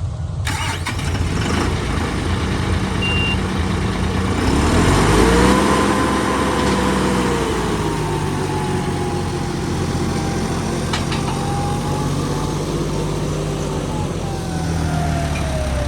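Tractor engine running under load: its pitch rises about five seconds in, holds steady, then drops off again near the end.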